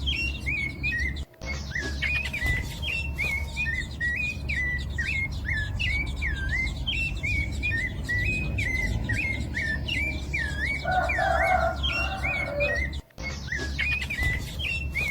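A bird chirping over and over, a short dipping note about twice a second, with brief breaks about a second in and again near the end.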